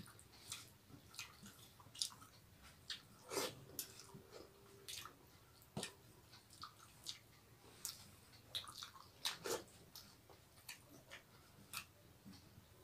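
Faint close-up eating sounds of people eating rice and fish curry by hand: irregular soft clicks of chewing and lip smacks, with wet squishes.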